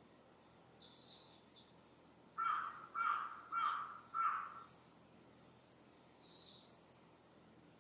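A crow caws four times in quick succession, the loudest sound. Throughout, a small bird repeats short, high chirps over a faint steady background hiss.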